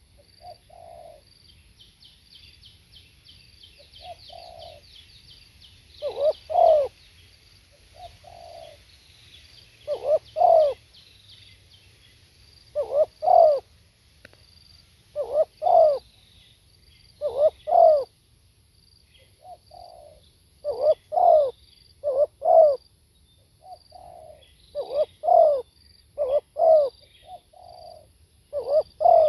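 Spotted dove cooing over and over: a low, hollow phrase of paired coos roughly every two to three seconds, with softer single coo notes between the phrases. Faint high chirping runs through the first few seconds.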